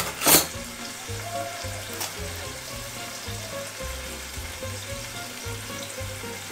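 Halved cherry tomatoes sizzling steadily in a frying pan over high heat as sugar is sprinkled in to caramelise them. A couple of brief loud clatters come right at the start.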